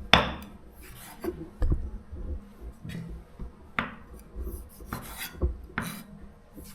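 Wooden pestle knocking and scraping in a som tum mortar, irregular strikes about a second apart as tomatoes are pounded and mixed into the papaya salad.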